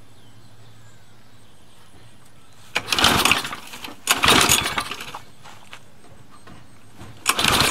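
Recoil pull-cord starter of an old Mountfield Emblem rotary lawn mower being yanked three times, each pull a loud, rasping turn-over of about a second. The engine does not catch: it has no choke and is being started cold.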